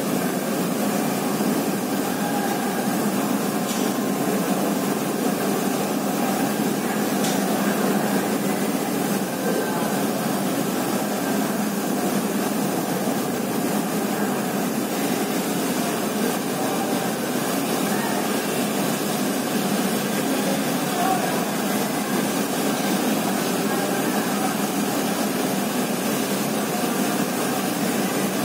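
Heavy rain falling steadily, a constant rushing noise without breaks.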